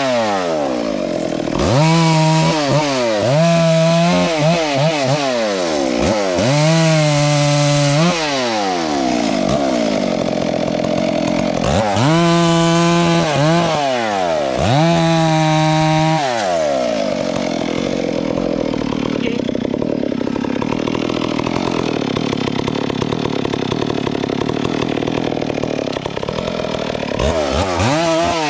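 Two-stroke chainsaw revved up and down over and over, each rev a rising then falling whine. In the second half it holds a steady, rougher speed for about ten seconds, cutting through wood, and it revs again near the end.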